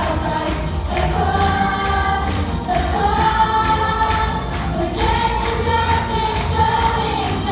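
Music with a group of voices singing long, held notes over a steady low accompaniment.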